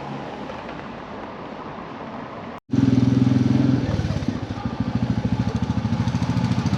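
Royal Enfield motorcycle engine running steadily with an even, pulsing exhaust beat. It comes in loud after a sudden cut about two and a half seconds in, following a quieter stretch of low background noise.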